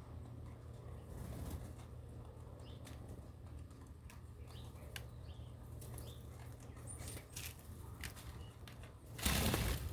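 Birds moving about, with scattered sharp clicks and short high chirps, then a loud brief burst of wing flapping near the end.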